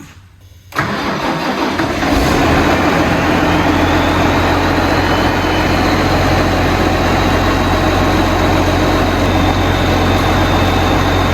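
Farm tractor's diesel engine cranking and catching about a second in, on its first start after an oil and filter change, then settling into a steady idle. A thin high whine rises over the next few seconds and then holds steady.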